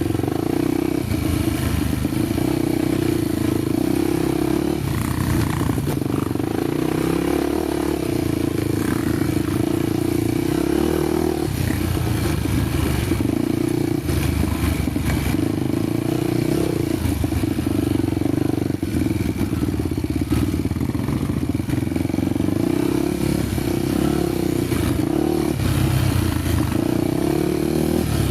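Honda XR250 Tornado's single-cylinder four-stroke engine running on a dirt trail, its revs rising and falling every few seconds as the rider works the throttle, with the bike rattling over rough ground.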